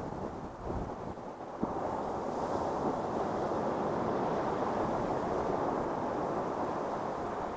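Ocean surf on a beach: a wave's wash swells about two seconds in and then slowly eases. Wind buffets the microphone at the start.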